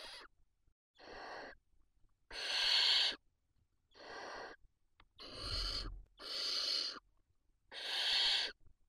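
Barn owl chicks giving their hissing, snore-like begging calls: a run of rasping hisses, each about half to one second long, about one a second, some louder than others.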